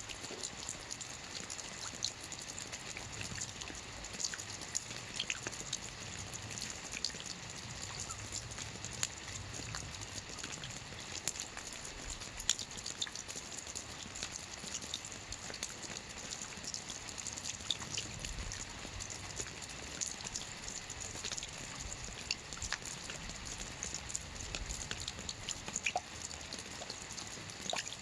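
Steady rain falling on a lake, a constant hiss dotted with many small, irregular drop ticks.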